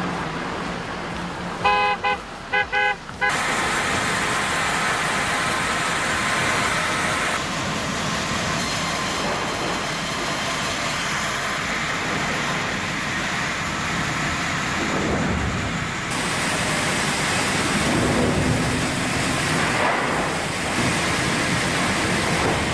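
Vehicle horn giving a few short toots about two seconds in, then the steady road noise of heavy trucks rolling past.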